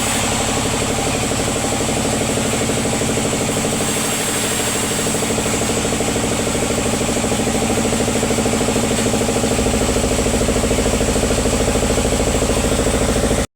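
Engine-driven sawmill machinery running steadily, with a fast even engine beat and hum; a deeper low drone comes in about nine and a half seconds in.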